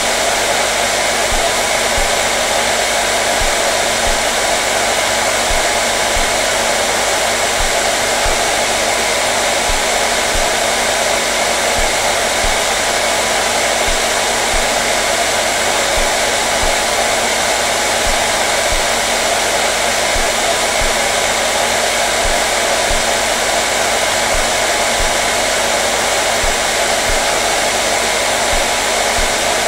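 Hair dryer running continuously: a steady rushing whoosh of blown air with a faint motor hum, unchanging throughout.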